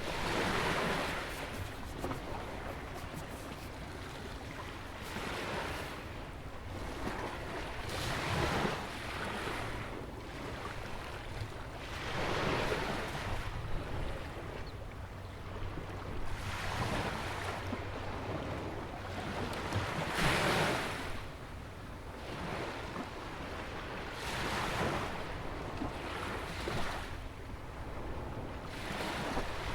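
Small ocean waves breaking and washing in at a beach jetty, a rushing surge every few seconds over a steady low rumble.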